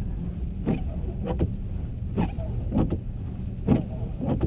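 Car moving through snow, heard from inside the cabin: a steady low rumble of road and engine noise, with short sharp swishes or knocks about every three-quarters of a second.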